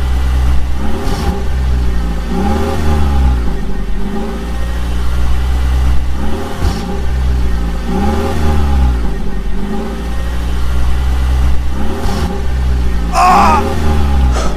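Vehicle engine running over a steady low drone and revving up and down again and again, every couple of seconds. Near the end there is a brief higher-pitched sound.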